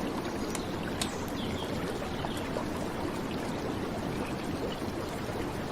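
Steady rush of flowing river water under rain, with a few faint, sharp ticks of raindrops scattered through it.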